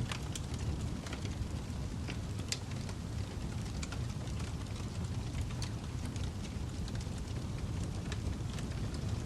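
Fireplace fire burning: a steady low rumble with irregular sharp crackles and pops of the wood.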